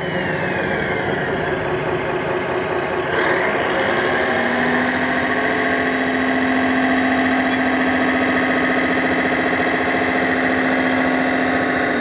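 A 1/5-scale RC Ford 6610 model tractor running steadily, its motor sound a stack of steady tones. A falling whine fades over the first second, and the sound steps up about three seconds in.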